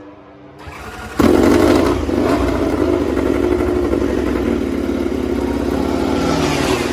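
MotoGP racing motorcycle engine running loud at high revs, starting suddenly about a second in.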